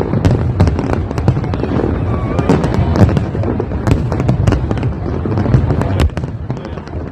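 Fireworks going off in quick succession: a dense run of sharp bangs and crackles, easing briefly about six seconds in.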